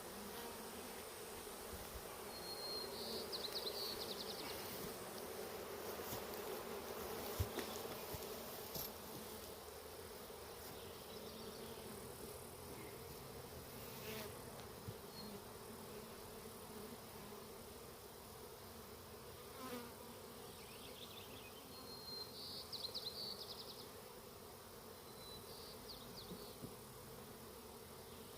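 Honeybees from a toppled, disturbed hive buzzing in the air, a steady hum. A few short high trills come through about three seconds in and twice near the end.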